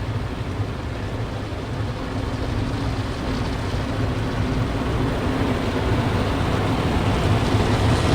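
Automatic car wash machinery running, heard from inside the car: a steady rushing noise over a low hum that slowly grows louder.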